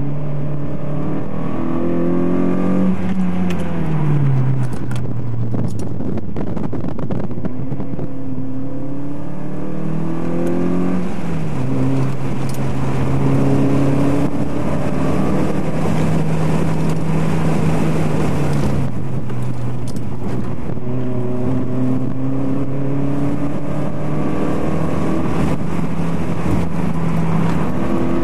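Turbocharged car engine heard from inside the cabin while lapping a track. The engine note climbs under acceleration and drops sharply at gear changes and braking, several times, over steady wind and road noise.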